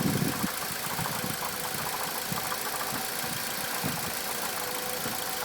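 Mitsubishi Lancer Evolution X MR's turbocharged four-cylinder engine idling with a repeated knocking, ticking noise, which the owner calls loud engine knocking on a bone-stock, nearly new car. Heavier low thumps fade in the first half second, then it settles to a steady idle.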